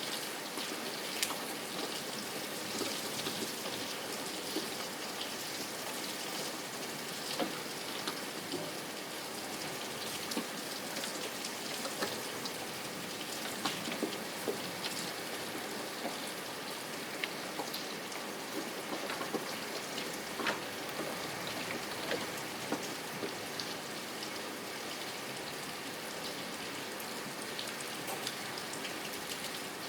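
Steady rain falling, with a constant hiss and many small drops pattering on a surface.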